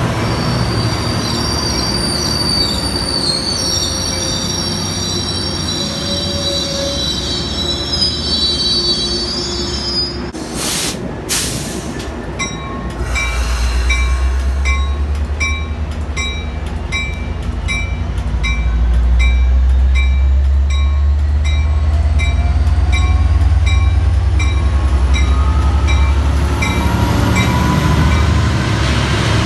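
A Metrolink train rolling along a station platform: for the first ten seconds its steel wheels squeal in high, sliding tones, then after a break the EMD F59PHI diesel locomotive runs past close by with a loud, deep engine rumble. Through the locomotive's passage a bell strikes steadily, about twice a second.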